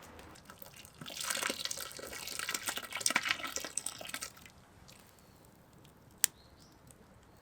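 Liquid pouring and splashing for about three seconds, then a single sharp click.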